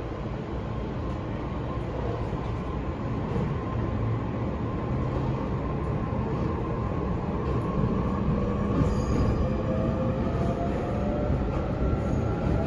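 Running noise inside an E531-series electric train car: a steady rumble of wheels on rails that grows gradually louder, with a faint whine from the traction motors that rises in pitch in the second half.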